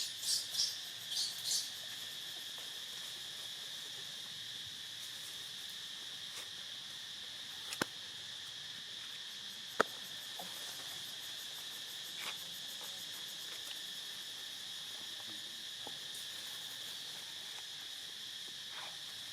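Steady, high-pitched chorus of insects droning throughout. There are a few short high chirps in the first two seconds, and a sharp click at about eight seconds and again at about ten seconds.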